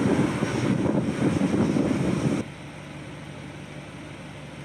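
Honda Grom mini bike's single-cylinder engine running while riding, mixed with wind rush on the microphone. The sound drops noticeably about two and a half seconds in and carries on quieter and steady.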